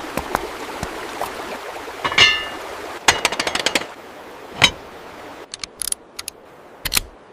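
Small tools at work: scattered taps, knocks and metallic clinks over a low hiss. There is a ringing clink about two seconds in, and a quick rattle of clicks about three seconds in.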